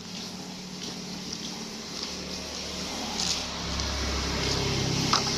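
A motor vehicle engine running steadily, growing louder about three and a half seconds in, with a few faint ticks over it.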